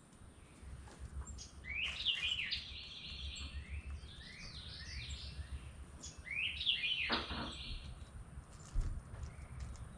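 Songbirds singing: phrases of quick falling chirps about two seconds in, again around four seconds, and near seven seconds, over a low steady background rumble.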